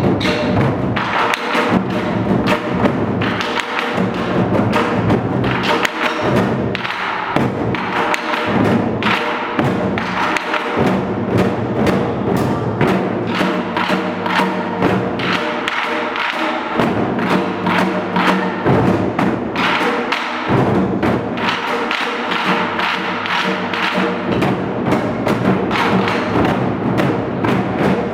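An ensemble of Korean barrel drums (moduk-buk) played together in a fast, dense run of strokes, several per second without a break.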